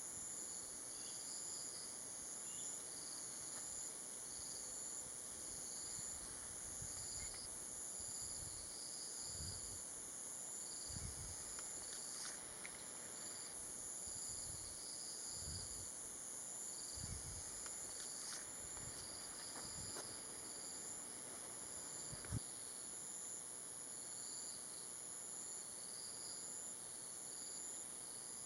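Tropical forest insects: a steady high-pitched drone with a pulsing chirp repeated over it. A few soft low thuds come through the middle, and a single sharp click about two-thirds of the way in.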